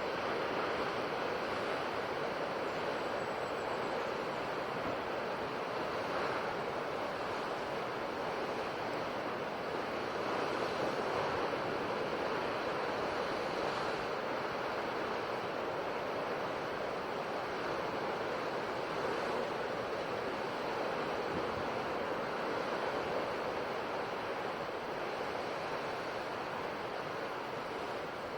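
Ocean surf washing onto a coast: a steady rushing wash of waves with gentle swells in loudness.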